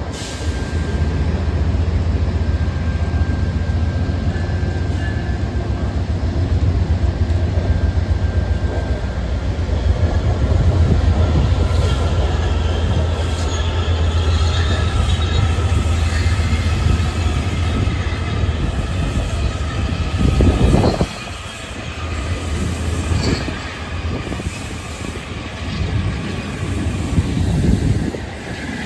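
Amtrak passenger cars rolling past: a steady heavy rumble of steel wheels on rail, with faint high wheel squeals and a few knocks from the rail joints. The rumble drops off about two-thirds of the way through.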